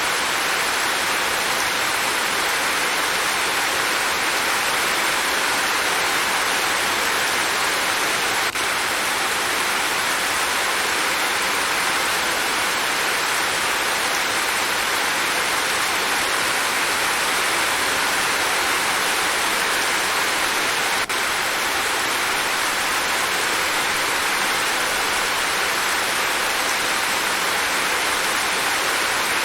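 Steady, heavy rain: an even, unbroken hiss of falling water, with two very brief dips in level, one about a third of the way in and one about two-thirds in.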